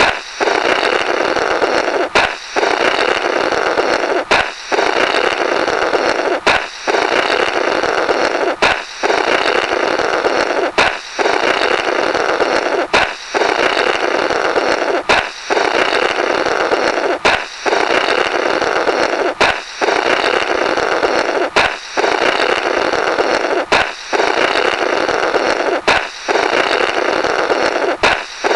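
Comic 'blorrrt' sound effect, looped: a balloon pops, then air is blown through the burst rubber in a long buzzing raspberry lasting about two seconds. It repeats roughly every two seconds, about thirteen times.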